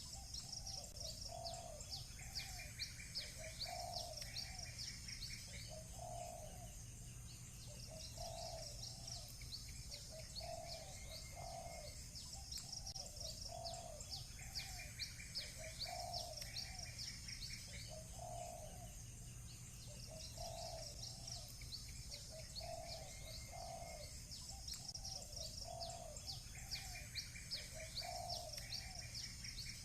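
Doves cooing over and over, about one coo a second, while small birds chirp in bouts of quick, high, sweeping notes every few seconds, with a shorter buzzy trill now and then. A steady low hum lies underneath.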